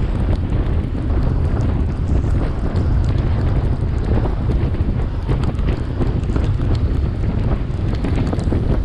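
Wind buffeting the microphone of a camera on a time-trial bike riding in heavy rain: a steady loud low rumble with scattered sharp ticks throughout.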